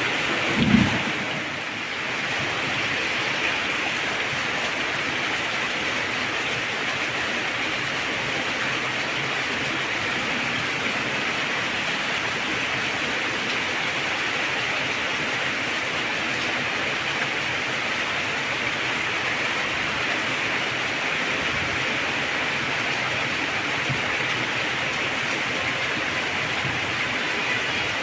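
Heavy rain falling steadily in an even hiss. A short low burst of thunder sounds within the first second.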